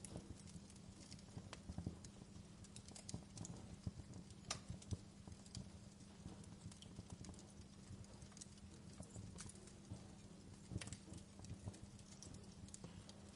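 Wood fire in a fireplace crackling quietly: irregular pops and snaps over a low steady rumble, with sharper pops about four and a half seconds and eleven seconds in.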